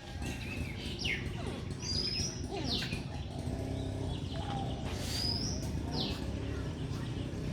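Bird calls: whistled notes that sweep quickly down in pitch, about four of them spread through the stretch, mixed with short high chirps, over a steady low rumble.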